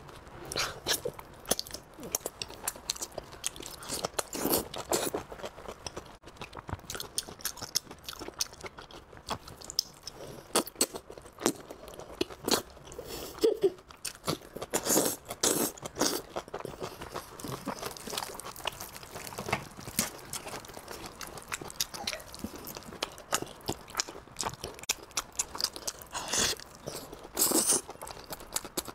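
Close-miked biting and chewing of braised pork, heard as many short, irregular mouth sounds.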